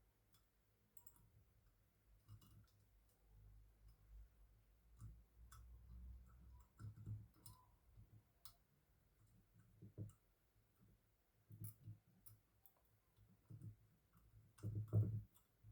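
Faint, irregular clicks and light taps of small parts being handled while the LEDs on an opened LED bulb's board are checked for the blown one, over a low hum.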